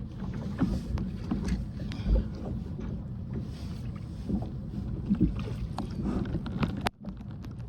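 Water noise around a kayak on the move, with scattered small knocks and clicks from handling on board. The sound drops out briefly near the end.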